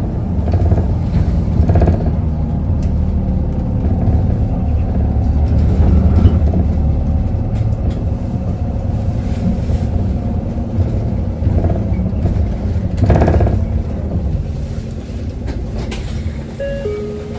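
Cabin sound of a 2019 Isuzu Erga city bus running, its four-cylinder diesel and drivetrain giving a steady low rumble. A few knocks and rattles come through the cabin, the loudest about 13 seconds in, and the sound eases a little near the end.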